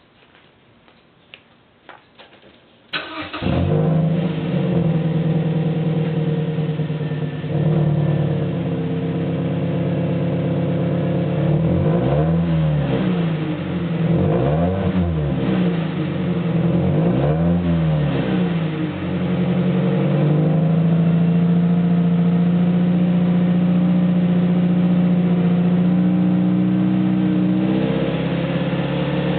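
Mazda MPV (LW) 2.3-litre four-cylinder with an AutoExe aftermarket muffler: the engine starts about three seconds in and idles. It is then revved up and back down three times in a row and settles to a steady run.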